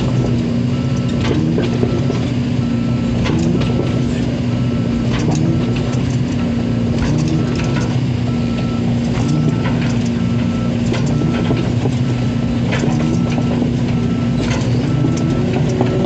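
Long-arm crawler excavator travelling on its tracks: the diesel engine runs steadily while the steel track links clank and knock irregularly. A faint beep repeats about twice a second, as from a travel alarm.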